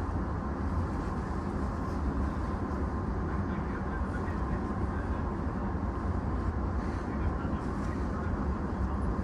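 Steady low rumble and hum from a stationary E233-6000 series electric train's onboard equipment, with a faint steady whine, while the train stands halted awaiting a safety check.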